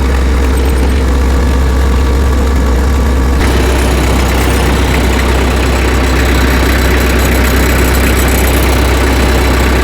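Tractor engine idling with a steady low drone; a hiss above it grows louder about three and a half seconds in.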